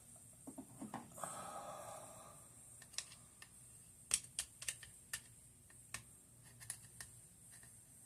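Sharp, irregular clicks and taps of metal and plastic as an AK-47's lower handguard and its stiff retaining pin are worked into place, with a short scraping rustle near the start.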